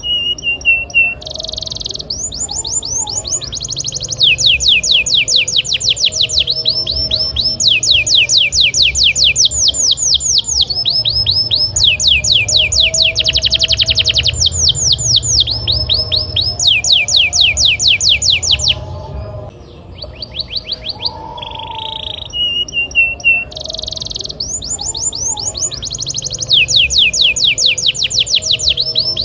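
Domestic canary singing a long, loud, continuous song of fast trills, each phrase a rapid run of repeated falling notes, switching to a new phrase every second or two with a short break just after the middle.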